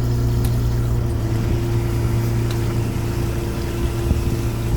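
A small fishing boat's engine and hydraulic line hauler running steadily: a constant low drone with a steady higher hum over it, while a string of octopus pots is hauled in.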